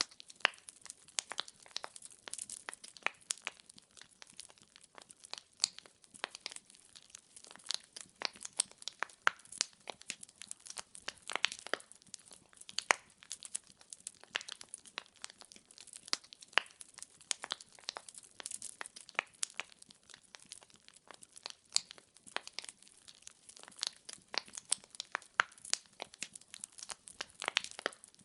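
Logs burning in a fireplace, crackling: a dense, irregular run of sharp snaps, several a second, some much louder than the rest, over a faint hiss.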